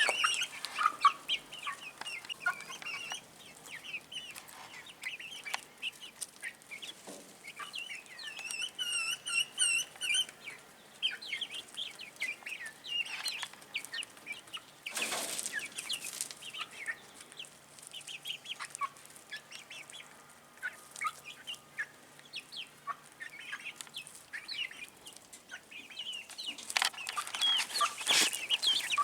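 Young Black Sex Link chicks peeping and chirping in many quick, high calls, with a run of louder repeated calls about nine seconds in. Two short bursts of noise break in, one about halfway through and one near the end.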